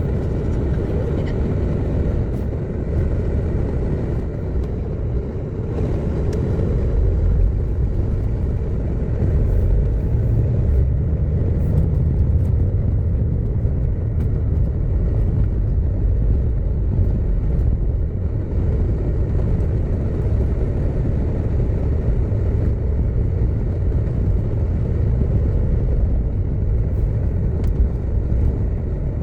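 A car driving along, with a steady low engine and road rumble.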